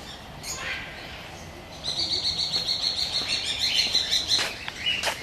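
Birds chirping: a fast run of high chirps starts about two seconds in and lasts a couple of seconds, with a couple of sharp clicks near the end.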